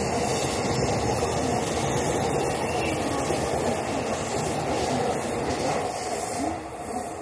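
JR Tokaido Line electric commuter train leaving the platform, its cars running past with a steady rush of wheel and motor noise that eases a little near the end as the last car goes by.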